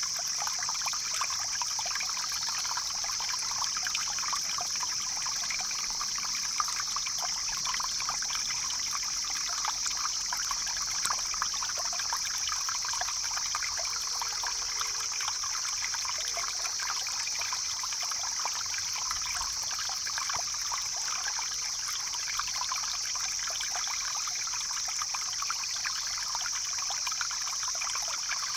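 Stream flowing steadily, a continuous rush and babble of water.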